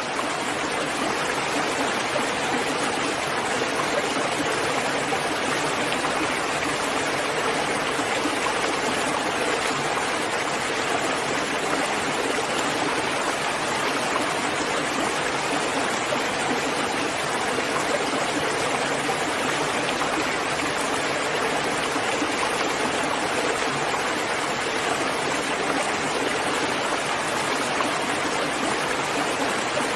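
Steady rain falling, an even hiss of water with no breaks or distinct drops standing out.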